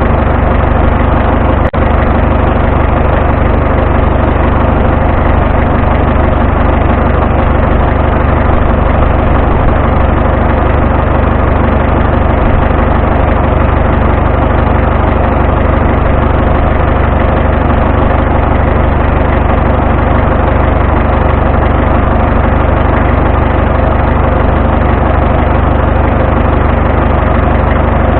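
Vintage farm tractor engine running loud and steady at constant speed, with one brief click about two seconds in.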